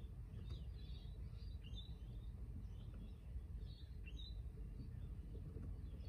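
Small birds chirping again and again, short high calls, over a steady low rumble of background noise.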